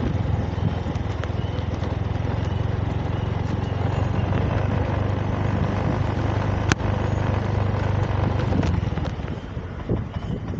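A motor vehicle's engine running with a steady low hum that fades about nine seconds in. Faint short bird chirps come through now and then, and there is one sharp click about two-thirds of the way through.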